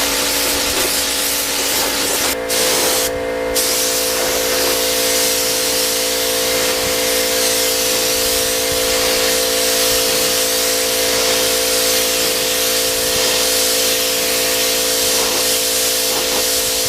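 Paint spray gun hissing steadily as it lays down silver metallic basecoat, over a steady hum. The spray cuts out briefly twice a few seconds in.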